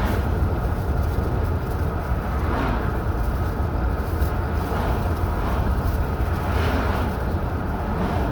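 Steady road noise of a car driving at speed: a low rumble of engine and tyres, with a hiss that swells and fades a few times.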